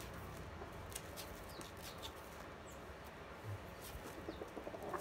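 Faint short bird chirps and scattered light clicks over low background noise.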